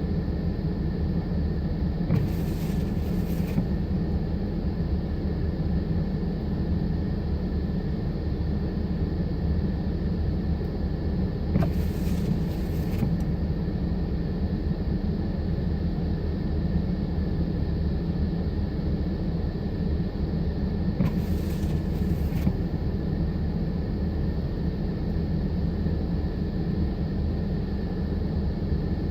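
Steady low rumble, with a faint steady whine above it. About every nine to ten seconds there is a brief click and a double swish, three times.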